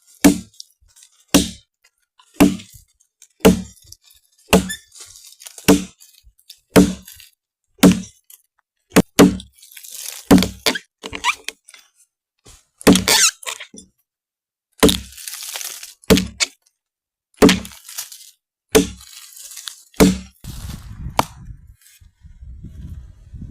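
Axe chopping into wood with steady blows about once a second, each a sharp crack, with splintering between some strikes. The blows stop near the end, leaving a low rustle.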